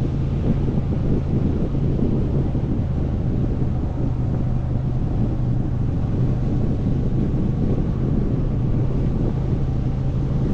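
Motorcycle engine running at steady revs while riding along, with heavy wind buffeting on the microphone.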